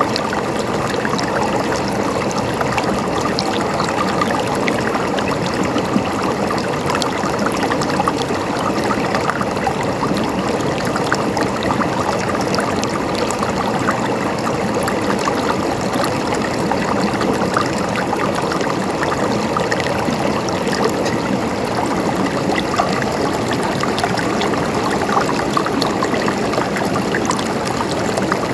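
Stream water flowing and gurgling steadily, a continuous rush with many small splashes.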